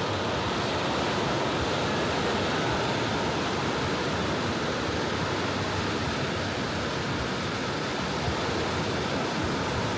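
Small ocean waves washing onto a beach, a steady rushing of surf with no distinct breaks.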